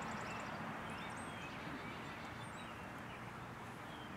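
Quiet outdoor ambience with birds chirping faintly here and there, and a fast high trill fading out in the first half second.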